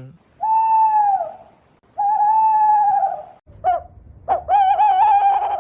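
Owl hooting: two long, steady hoots that each sag in pitch at the end, then a short note and a longer wavering hoot near the end.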